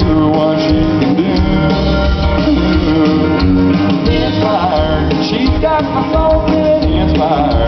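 Live country band playing loudly, with guitars and a drum kit and a pitched lead line bending in pitch over the steady accompaniment.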